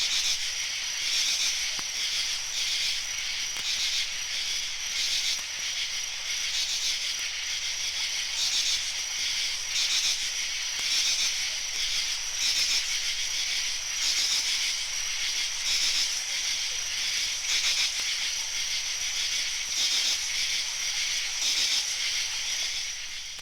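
A high, steady hissing noise that swells and eases in pulses about once a second, cutting off at the end.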